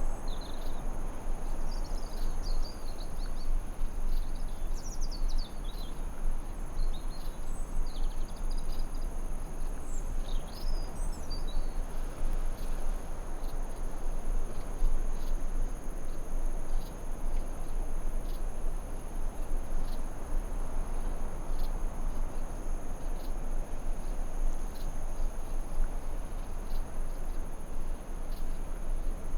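Forest ambience: a steady rushing background with a continuous high insect drone, and birds chirping in short calls during roughly the first twelve seconds.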